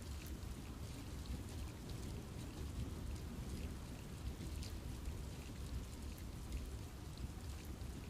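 Steady rain falling on trees in a forest, with scattered drops ticking over a low, even rumble.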